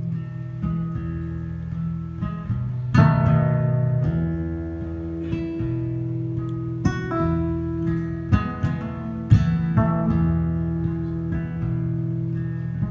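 Acoustic guitar playing an instrumental break in a slow country ballad, single plucked notes and strums ringing over sustained low notes.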